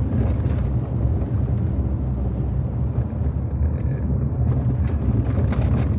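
Steady low rumble of a car driving, engine and road noise heard from inside the car, with a few light knocks near the end.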